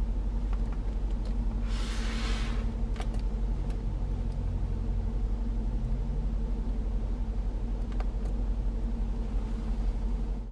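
Range Rover Sport SVR's 5.0-litre supercharged V8 idling steadily, a low rumble heard from inside the cabin. A brief hiss comes about two seconds in, with a few faint clicks.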